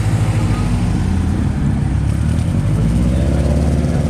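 A car engine running loud and steady, its pitch shifting slightly about three seconds in.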